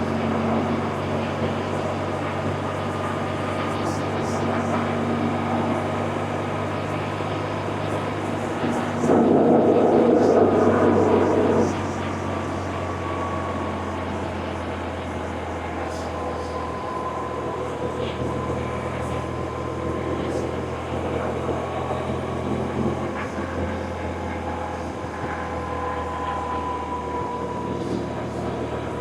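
BMW R1100RT's boxer-twin engine running on the move, its steady note shifting a few times. About nine seconds in, a louder rush of noise lasts nearly three seconds.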